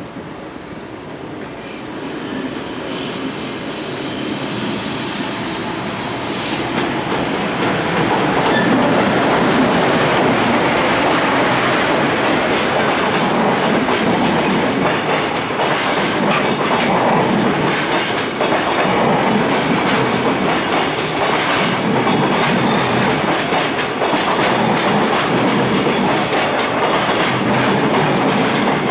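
Container freight train rolling past, its wheels clattering over the rail joints with some wheel squeal. It grows louder over the first several seconds, then stays steady and loud.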